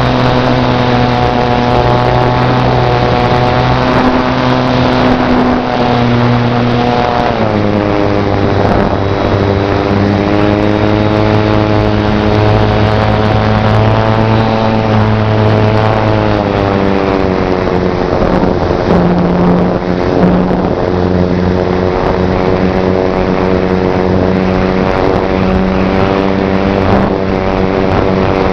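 Slow stick RC model airplane's brushless electric motor and propeller running, a steady buzzing drone whose pitch shifts a couple of times, with wind noise.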